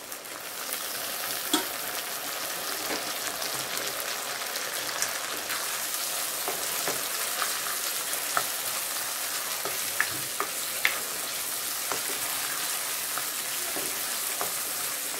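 Chopped tomatoes, shallots, garlic and green chillies sizzling in hot oil in an aluminium kadai as they are stirred with a wooden spatula, with a light tap of the spatula against the pan now and then. The tomatoes are in the early stage of sautéing down.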